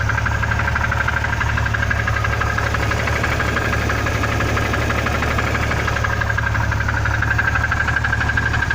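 Engine idling steadily with a rapid, even knock from its lower end, which the owner places around the sixth cylinder.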